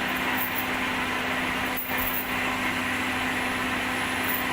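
A steady engine-like drone with a constant low hum, running evenly without changes.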